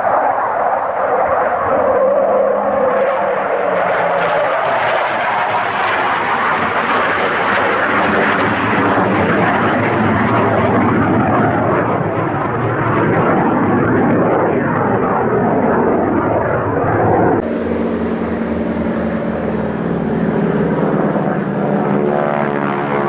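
Aircraft engines at an air display: a loud, dense roar that falls in pitch in the first few seconds as the plane passes, then cuts off abruptly about 17 seconds in to a different aircraft sound with a steady low engine hum.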